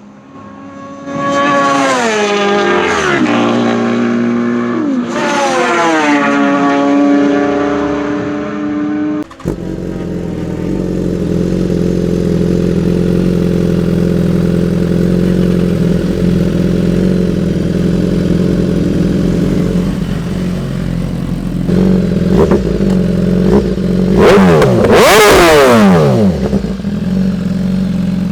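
Superbike engines. Two revs whose pitch climbs and then falls away. After a sudden change, a steady idle. Near the end, a loud rev or pass with a steeply falling pitch.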